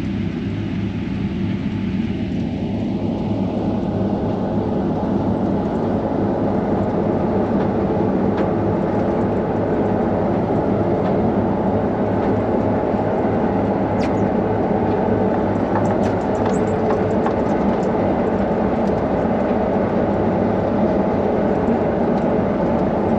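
Combine harvester running steadily while cutting on a hillside, heard from inside the cab: a continuous engine and machinery drone that builds slightly in loudness over the first few seconds.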